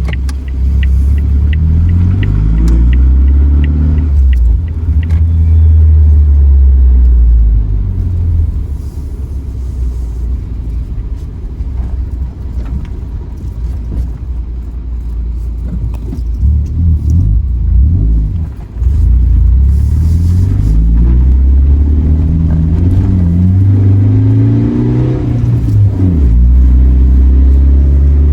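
Suzuki Jimny Sierra's 1.5-litre four-cylinder engine driving on a gravel road, its pitch rising and falling as it accelerates and eases off, over a rough tyre-and-gravel rumble. A quick run of light ticks sounds in the first few seconds.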